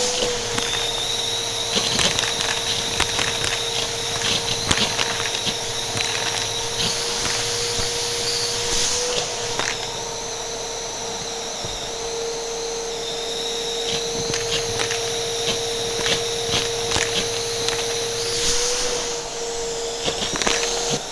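Upright vacuum cleaner running with a steady motor whine, with irregular sharp clicks and rattles of coins being sucked up through it.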